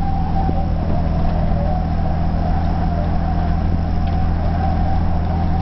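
Toyota LandCruiser 4WD engine running with a steady drone as it drives along the beach, with a faint wavering whine above it.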